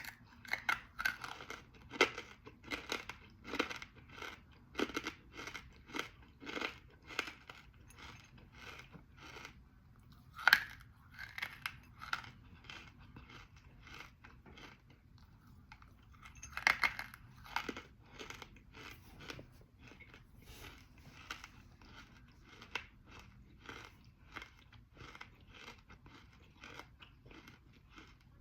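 Close-up crunching and chewing of a hard, dry edible clay called Black Hole: sharp crunches about twice a second, with loud fresh bites about 2, 10 and 17 seconds in. The crunches grow softer toward the end as the piece is chewed down.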